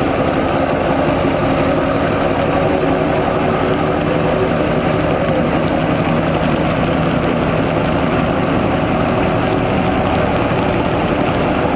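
Duramax V8 turbodiesel pickup engines running at a steady idle, with an even, unchanging pitch.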